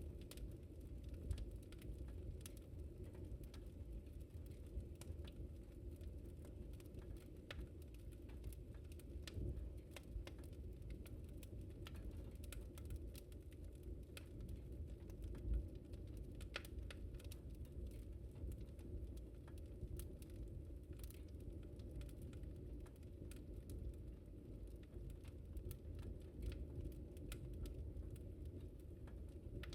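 Wood fire crackling in a fireplace: a steady low rumble of burning with frequent small pops and ticks, and one louder pop about halfway through.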